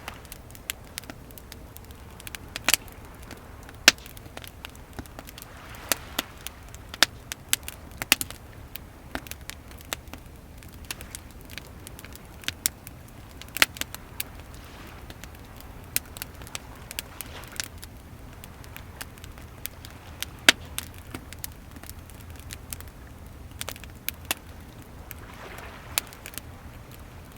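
Wood fire crackling with frequent sharp, irregular pops, over a steady low rumble of waves with a few soft swells of surf.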